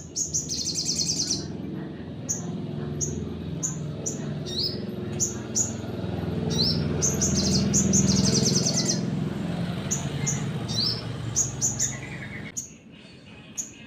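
Sunbird (sogon) singing: a string of sharp, high chips broken by fast rattling trills near the start and again in the middle. A steady low rumble runs underneath and cuts off with the song near the end.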